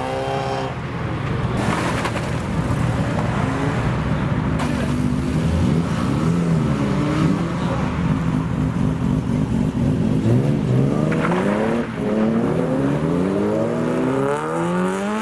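Several car engines running and revving as cars pull away one after another, their pitch rising and falling with throttle and gear changes. Near the end one engine climbs steadily in pitch as it accelerates.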